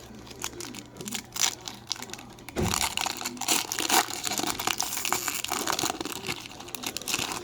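A trading card pack's wrapper being torn open and crinkled by hand: a few light crackles at first, then from about two and a half seconds in a dense run of crinkling and tearing that stops at the end.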